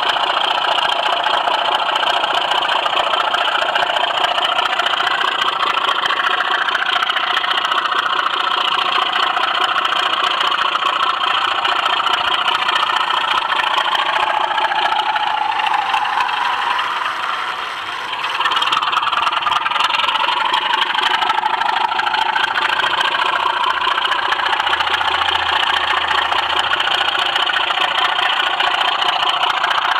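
Model railway train running on the track: the locomotive's small electric motor whining and the wheels rattling over the rails, close to the microphone, with the whine sliding up and down in pitch. It dips briefly about two-thirds of the way through.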